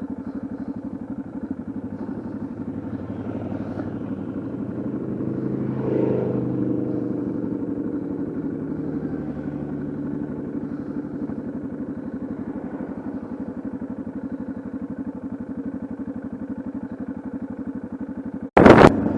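Yamaha XT660Z Ténéré's single-cylinder engine running steadily under way, swelling a little about six seconds in. Near the end the sound drops out for a moment and a short, loud burst of noise follows.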